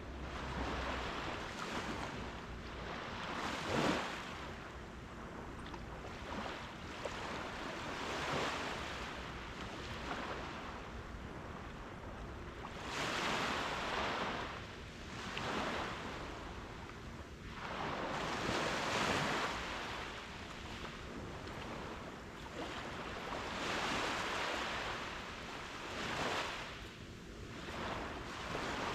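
Ocean surf breaking and washing up a sandy beach, each wave swelling and fading every few seconds.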